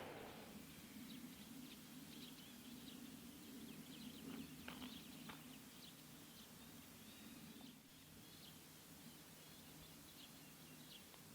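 Faint birdsong: many short, high chirps from small birds, over a low steady hum.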